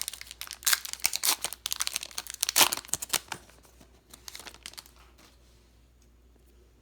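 A foil trading-card pack wrapper being torn open and crinkled: dense crackling for about three seconds, then a few soft rustles that die away.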